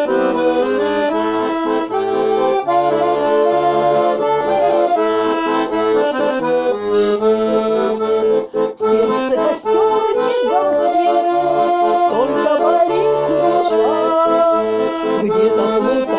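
Bayan (Russian button accordion) playing the song's instrumental introduction: a melody over sustained chords with a bass line of separate low notes. About nine seconds in, after a brief dip, the sound turns brighter, with light ticking above it.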